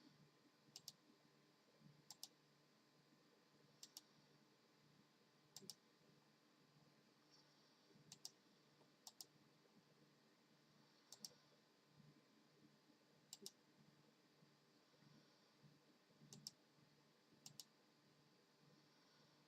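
Faint keyboard keys clicking, usually two or three quick presses together, at uneven gaps of a second or two.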